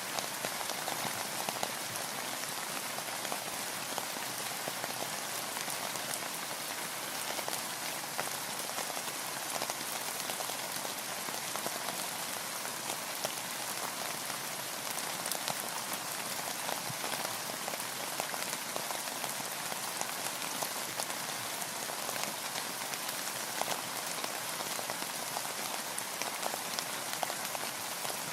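Steady rain falling, an even hiss dotted with many close, sharp drop ticks.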